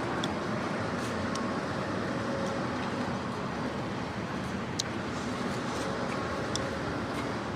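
Steady mechanical running noise with a few sharp clicks scattered through it.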